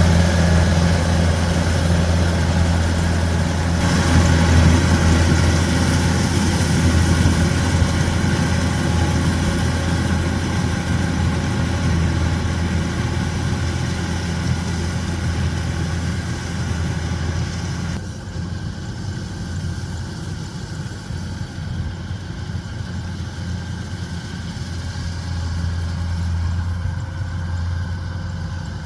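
Kubota DC-105X combine harvester's diesel engine running steadily with a deep hum. About eighteen seconds in, the higher, hissing part of the noise drops away, leaving mostly the low engine hum.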